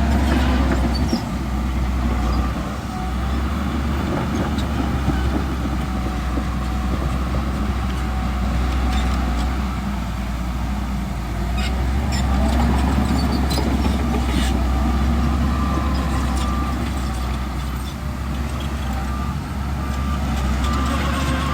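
Heavy diesel engine of earthmoving machinery running under load, a deep steady rumble that revs up about twelve seconds in and again near the end, with scattered clanks.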